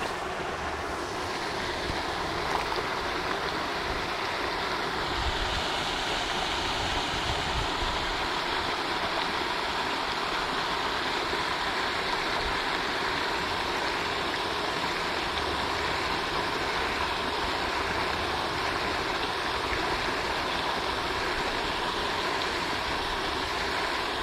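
Pond fountain spraying and splashing water, a steady rushing noise.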